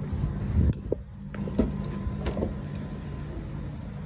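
Low steady rumble of a car's cabin, with a few sharp knocks and clicks in the first two and a half seconds.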